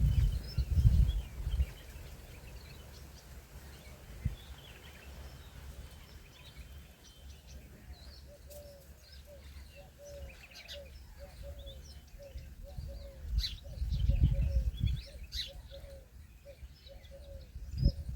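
Birds calling: a run of short, low cooing notes about twice a second through the second half, over scattered high chirps. Low rumbling thuds near the start and again about 14 seconds in.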